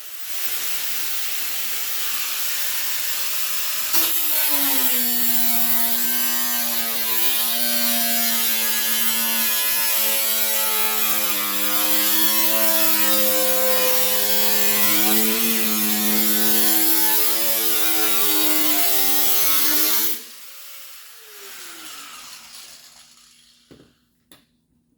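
Handheld power grinder working on the car's body metal and old body filler: a loud whine with heavy hiss that gets louder about four seconds in and sags and rises in pitch with the pressure on it. It is switched off about twenty seconds in and winds down.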